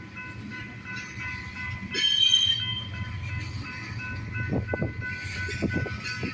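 A train passing at close range: a steady low rumble under a steady high-pitched whine, with a louder screech about two seconds in and a run of clanks in the second half.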